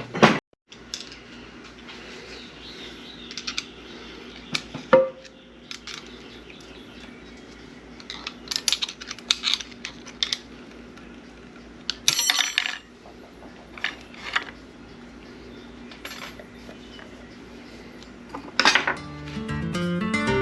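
Hand tools clicking and clinking against the steel gears and shaft of an SM465 transmission while a snap ring is worked off, with a short metallic ping about five seconds in and a quick cluster of clinks around twelve seconds. Acoustic guitar music comes in near the end.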